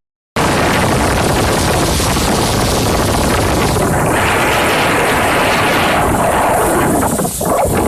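Loud, steady rushing noise of wind and surf at the seafront, after a brief dropout at the very start.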